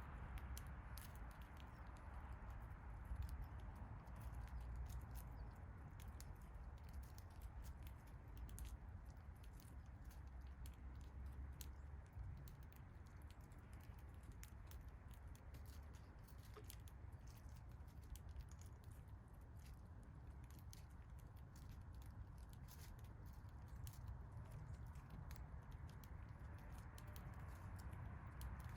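Faint scattered clicks and taps of small birds pecking at birdseed and peanuts, over a low steady rumble.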